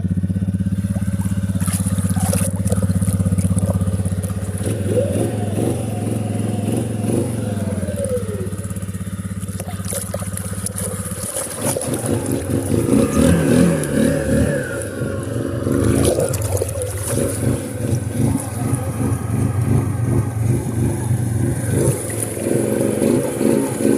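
Suzuki Eiger 400 ATV's single-cylinder engine idling steadily, then from about halfway through revving up and down under load as the quad is driven into deep flood water.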